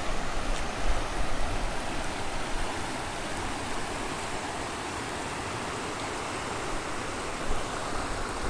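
Steady rushing of a fast-flowing river, with low wind rumble on the microphone about a second in and again near the end.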